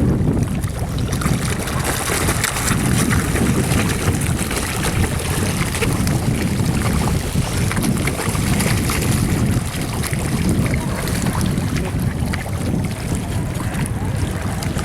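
Wind buffeting the microphone in a steady low rumble, over the splashing and churning of water.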